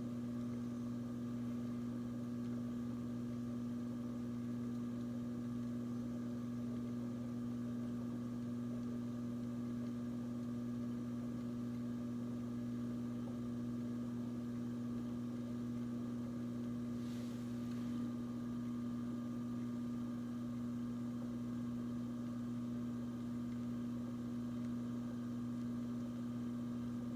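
Electric potter's wheel running with a steady hum while clay is thrown.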